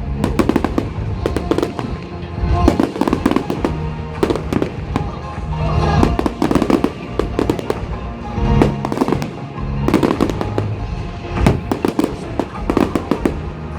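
Fireworks display: a dense, irregular run of bangs and crackling bursts, with music playing underneath.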